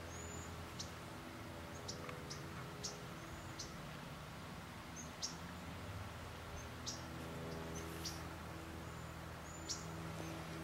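Small birds chirping: short, high, downward-sliding chirps every half second to a second, some with a hooked note, over a steady low hum.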